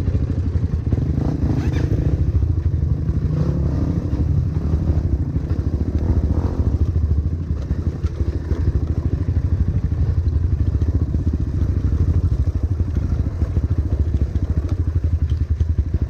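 Honda XR trail motorcycle's single-cylinder four-stroke engine running while riding, a rapid, steady firing pulse with the engine speed rising and easing slightly now and then.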